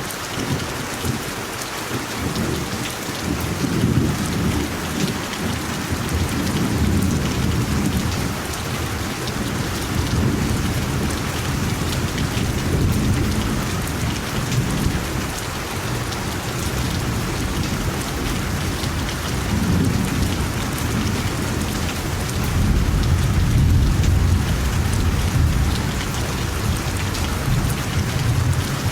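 Steady rainfall, a dense even hiss, over a low rumble that swells and fades several times and is strongest near the end.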